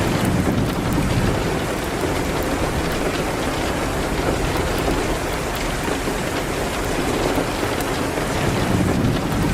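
Steady heavy rain on a window and surfaces, with a low rumble swelling about a second in and again near the end.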